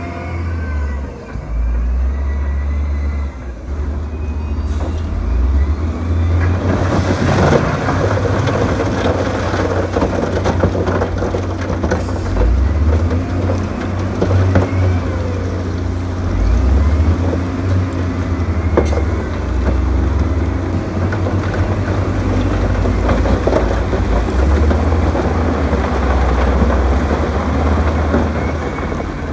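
Diesel engine of a heavy earthmoving machine running under load, its pitch rising and falling near the start. From about seven seconds in a denser rattling noise with scattered sharp clanks joins the engine.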